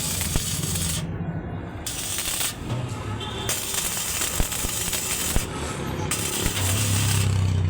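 Arc welding on a steel drum, crackling and hissing in bursts of one to two seconds that start and stop about four times, with a few sharp knocks and a steady low hum underneath.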